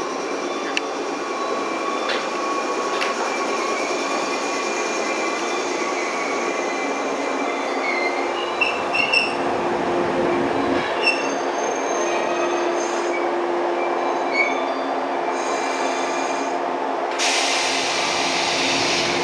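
Electric train moving slowly along the platform with a steady running rumble and hum. The wheels give short high squeals several times partway through. A loud hiss joins about seventeen seconds in.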